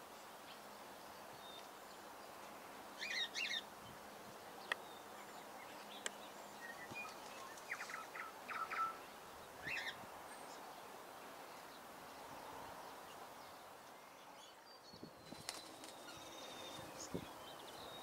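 Birds chirping a few times in short high calls over a faint steady outdoor hiss.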